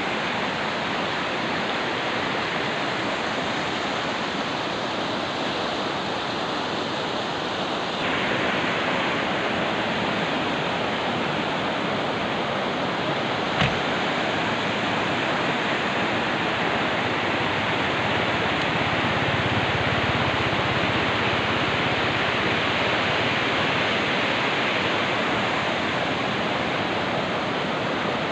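Rushing water of the Kameng River, a fast mountain river, as a steady, even noise of flowing water. About eight seconds in the sound turns a little brighter, and one short click comes about halfway through.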